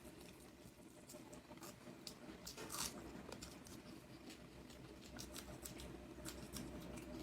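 Faint close-up eating sounds: a person chewing, with scattered small wet clicks and smacks, one a little louder a little under three seconds in.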